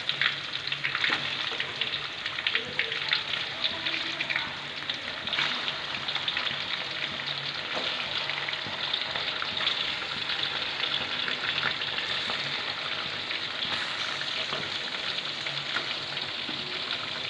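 Raw chicken pieces frying in hot ghee in an iron karahi: a steady crackling sizzle, with sharper crackles as more pieces are dropped in.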